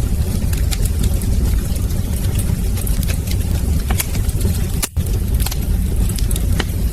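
Wood fire in a fireplace crackling, with scattered sharp pops and snaps over a steady low rumble. The sound drops out for a split second about five seconds in.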